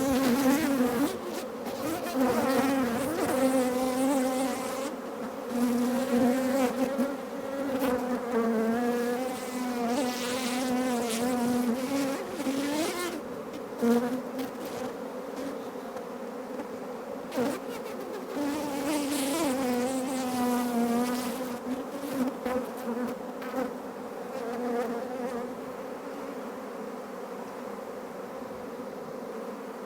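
Honeybees buzzing around an open hive, a steady hum whose pitch wavers and whose loudness swells and fades. A couple of light knocks sound about halfway through.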